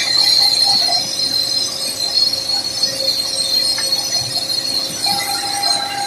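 Simba S7D long-hole drill rig's hydraulic top-hammer rock drill drilling, a steady rapid hammering with a high metallic ring from the T-38 drill rods.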